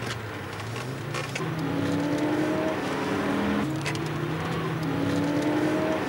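Car engine heard from inside the cabin of a pursuing police car, accelerating with its pitch climbing steadily. The pitch drops sharply a little past halfway at a gear change, then climbs again.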